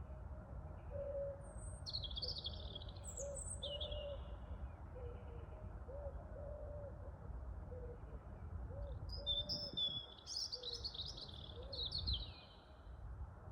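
Wind rumbling steadily on the microphone while a pigeon coos over and over in short, low, rounded notes. Small songbirds chirp in two brief bursts, one early and one near the end.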